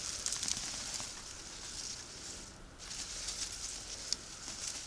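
Crackling rustle and scraping of dry soil and sweet potato vines being dug through, with scattered small ticks and a brief lull about halfway.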